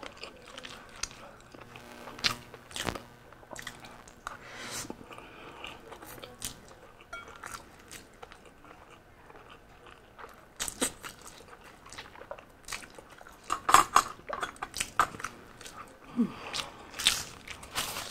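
Close-miked eating of Samyang spicy instant noodles: wet chewing and slurping, with many small mouth clicks, busiest in the second half. A paper tissue rustles near the end.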